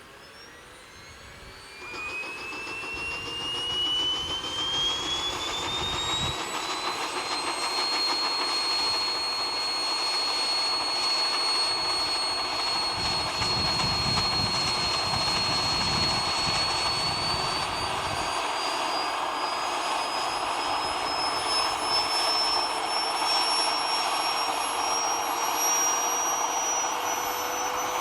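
Wren twin-shaft model turbine engine of an RC helicopter spooling up. A high whine climbs steeply in pitch from about two seconds in, holds steady through the middle, then rises again near the end, over a steady rushing noise.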